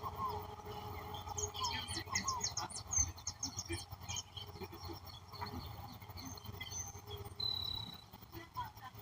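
Several wild birds calling and singing together: short rising chirps repeat throughout, a fast run of high notes comes in the first half, and a thin high whistle sounds near the end.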